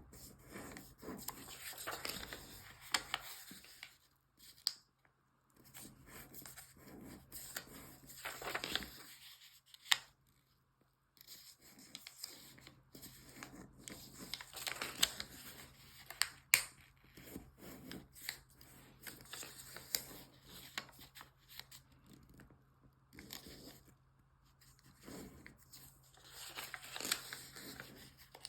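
Origami paper being folded and creased by hand: repeated rustling and crinkling as the sheet is handled and pressed, with a few sharp snaps of the paper.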